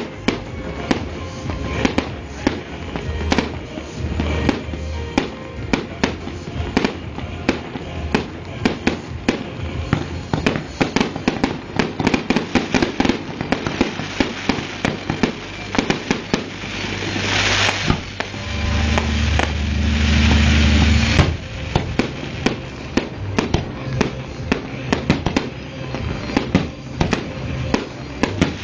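Fireworks display: a dense, continuous run of bangs and crackles, with a thicker burst of crackling about two thirds of the way in. Music plays underneath.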